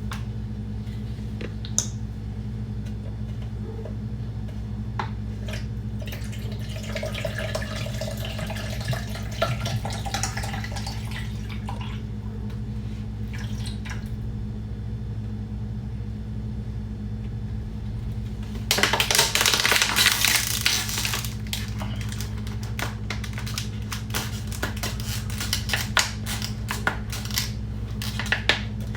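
Water poured into a coffee maker's reservoir, its pitch rising as the vessel fills. About two-thirds of the way through comes a louder rush, then many small crackles and clicks of plastic water bottles being crinkled. A steady low hum runs underneath.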